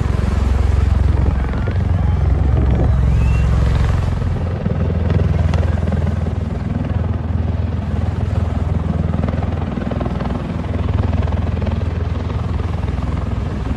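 Bell-Boeing V-22 Osprey tiltrotor in flight, its two large proprotors giving a loud, steady, deep rotor drone.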